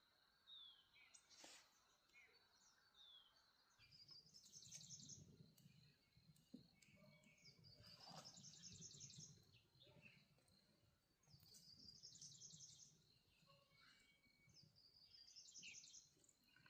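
Faint bird song: a high trilled phrase of about a second, repeated roughly every four seconds, with short falling chirps in the first few seconds.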